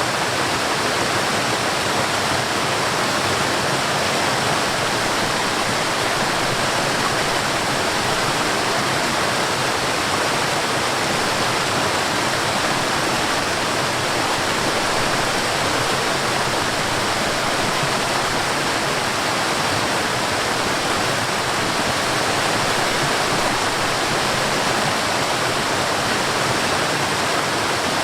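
Mountain stream and waterfall: water rushing and splashing in a steady, unbroken hiss.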